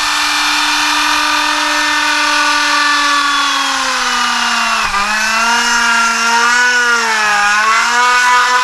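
Small electric drill running with a steady high whine while boring a small hole in an RC buggy's ESC mount for a zip tie. Its pitch sags twice, about five and seven and a half seconds in, as the bit loads up in the material.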